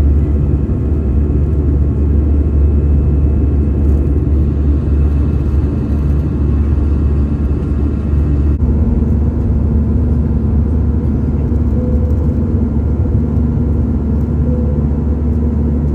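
Airliner cabin noise: a loud, steady low rumble of the jet engines and airflow, heard from inside the passenger cabin.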